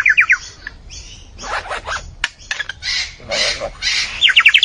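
A bird giving a varied run of calls: quick series of short, high notes that slide down in pitch near the start and near the end, with harsh, raspy calls between them about a second and a half and three seconds in.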